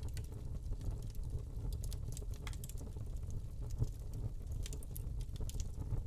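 Wood fire burning in a fireplace: a steady low rumble of flames under scattered sharp crackles and pops from the burning log, busiest about two seconds in and again near the end.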